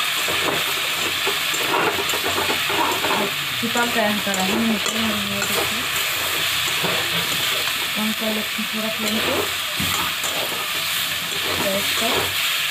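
Jackfruit pieces and ground spice masala sizzling in hot oil in a steel kadhai, stirred steadily with a spatula that scrapes and clatters against the pan. This is the masala being fried into the jackfruit.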